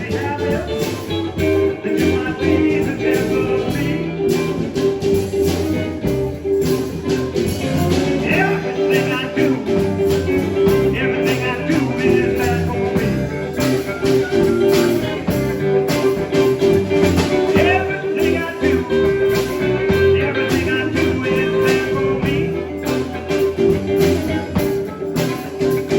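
A band playing blues-style music with guitar, continuous and loud, with a steady beat of sharp hits.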